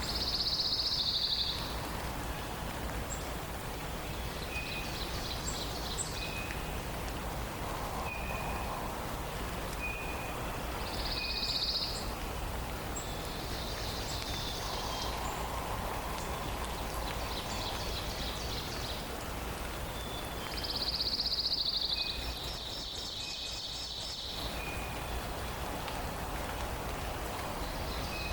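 Forest songbirds singing: a high, dry trill of about a second repeats every few seconds, sometimes buzzy and sometimes more clearly pulsed, while another bird gives short repeated chip notes, over a steady hiss.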